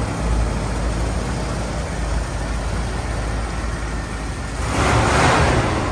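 Car engine running on high idle just after a cold start, a steady low drone. About four and a half seconds in a loud hissing rush of noise rises over it for about a second.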